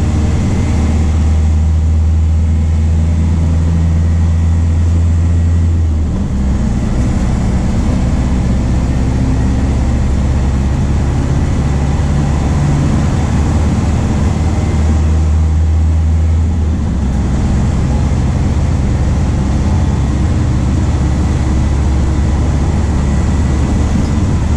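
MAN D0834 four-cylinder turbodiesel of a VW 17.230 OD bus running under way, a deep steady hum whose low note drops away about six seconds in, holds again briefly around fifteen seconds, then drops once more.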